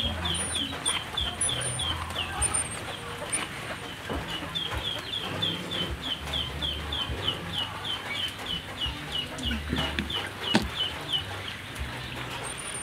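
A bird chirping in a fast, even series of short falling notes, about four a second, with a brief pause about four seconds in. A single sharp click sounds about ten and a half seconds in.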